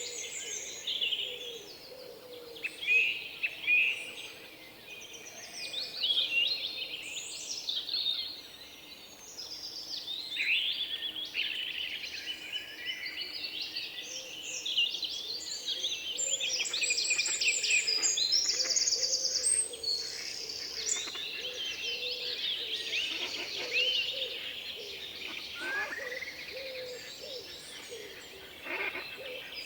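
Several songbirds chirping and singing at once, overlapping calls and trills, busiest about halfway through with a fast rattling trill.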